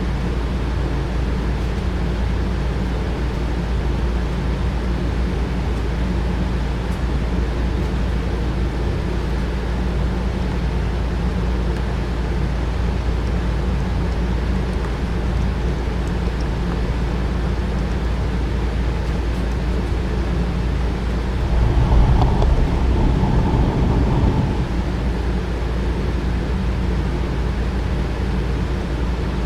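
Small electric motors of HO-scale slot cars and a model train running on a layout, a steady whirring hum. About two-thirds of the way through, one passes close and grows louder for roughly three seconds before falling back.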